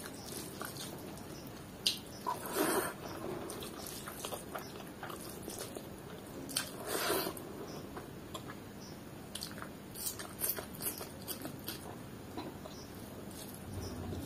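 Close-miked chewing and mouth smacking on a mouthful of rice and chicken liver curry, with soft squishes of fingers mixing the rice and gravy. Louder bursts of mouth noise come about two and a half and seven seconds in.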